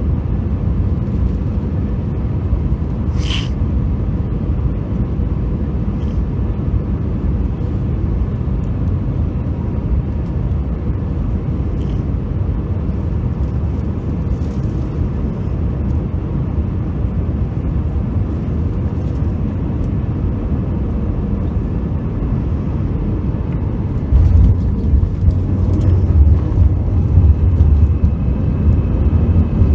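Airbus A321 cabin noise: a steady low rumble of engines and airflow, with a short click about three seconds in. From about 24 seconds in, the rumble grows louder and deeper.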